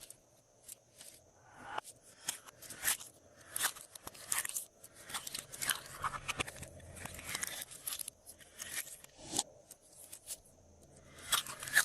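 Slime being handled and squished by hand: dense, irregular sticky clicks, crackles and crunches, easing off for a moment near the end and then picking up again.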